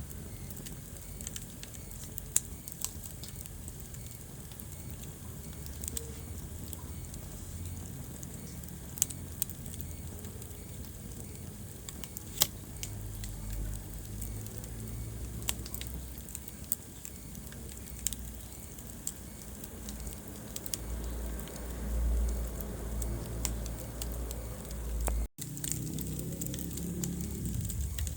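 Wood fire burning in a fireplace: irregular crackles and occasional sharp pops over a low rumble of flames. The sound cuts out for an instant near the end.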